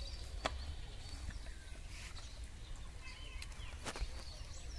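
Small birds chirping and calling, with a couple of sharp clicks, one about half a second in and one near the end, over a steady low rumble.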